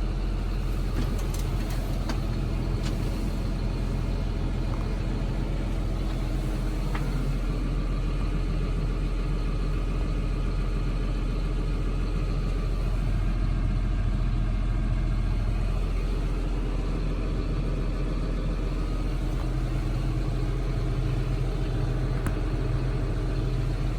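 John Deere 7530 Premium tractor's six-cylinder diesel engine idling steadily, a constant low hum.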